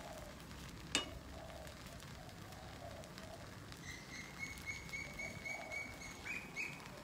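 A bird calling: a fast run of about a dozen short, high, clear notes, some four a second, lasting about two and a half seconds in the second half, the last note a little higher. A single sharp click about a second in.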